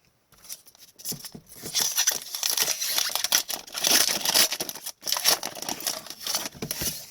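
Foil wrapper of a hockey card pack being torn open and crinkled, a dense crackling that starts about a second in and pauses briefly near the end.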